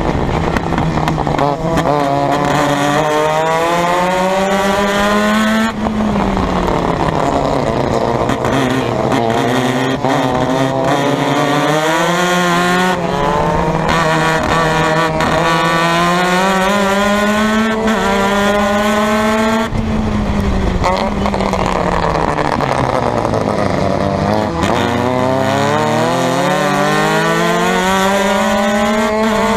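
Formula Mazda race car's engine at race pace, its pitch climbing and dropping with throttle and gear changes. Near the end it falls to a low pitch under braking for a slow corner, then climbs again under hard acceleration.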